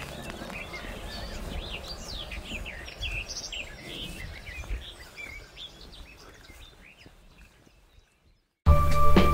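Birds chirping over a steady hiss of outdoor ambience, fading away to a moment of silence. Background music comes back in abruptly near the end.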